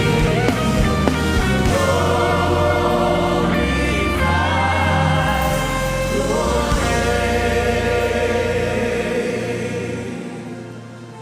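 Live gospel worship music: voices singing over sustained keyboard chords and bass, fading down near the end.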